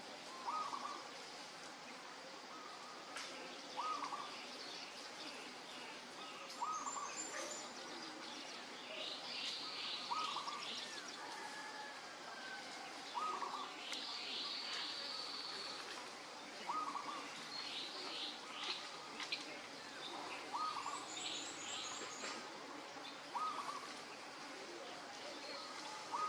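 Birds calling outdoors: a short call repeats every two to four seconds, with bursts of rapid chirping and a few high trills in between.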